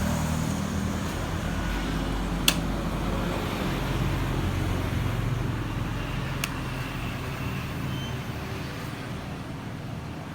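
Honda 650 inline-four motorcycle engine idling steadily, with one sharp click about two and a half seconds in and a fainter one a few seconds later.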